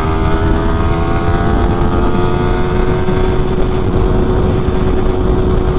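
Yamaha R15 V3's 155 cc single-cylinder engine at high revs, accelerating hard in third gear from about 80 to 95 km/h, its pitch climbing slightly and then holding. A steady rush of wind noise runs underneath.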